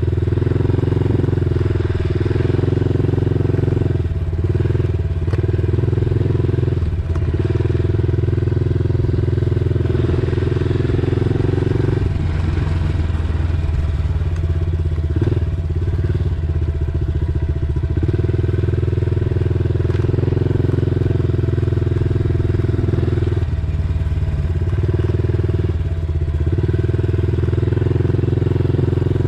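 Dirt bike engine running as the bike is ridden, the throttle eased off briefly several times. There is a longer stretch of rougher off-throttle running in the middle.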